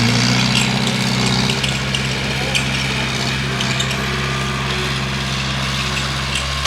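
Bulldozer's diesel engine running at a steady pitch, with light metallic clicking over it.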